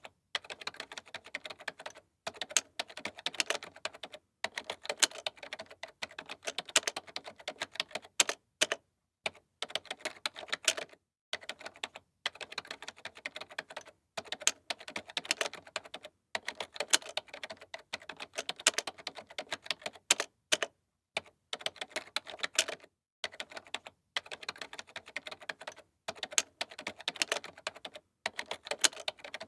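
Typing on a computer keyboard: quick runs of key clicks in bursts of a second or two, broken by short pauses.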